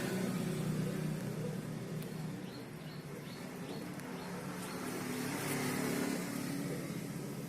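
A vehicle engine running in the background, easing off and then swelling again, with a few short bird chirps partway through.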